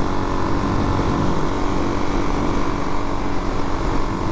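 Suzuki DR-Z400's single-cylinder four-stroke engine running at a steady cruise while riding, with no change in pitch.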